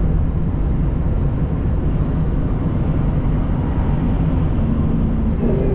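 Steady road and engine drone inside a vehicle cabin while driving on the highway.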